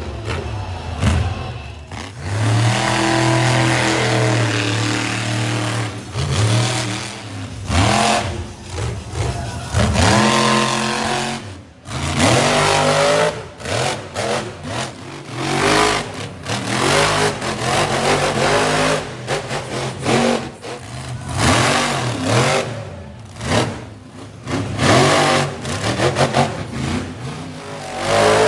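Monster truck engines revving hard in repeated throttle bursts, the pitch climbing and dropping again and again, with a few longer held pulls.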